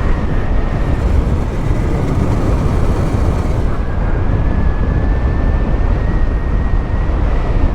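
Wind buffeting the microphone and tyre and road noise from a motorcycle coasting at speed with its engine switched off. A faint, steady high whine runs under the wind.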